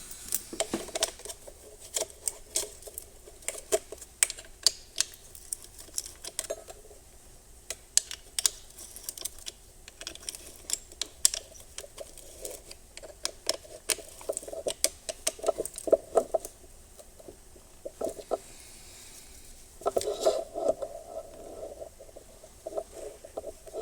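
Metal engine parts being handled on the bench: irregular small clicks, taps and clinks. These come as a piston and its rings are oiled up and worked on for refitting into the engine.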